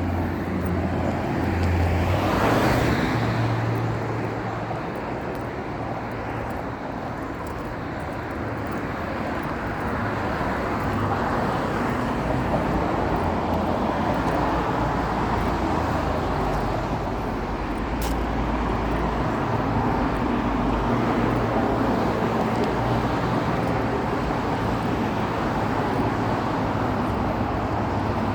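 Road traffic: cars passing with steady tyre and engine noise, one passing close about two to three seconds in.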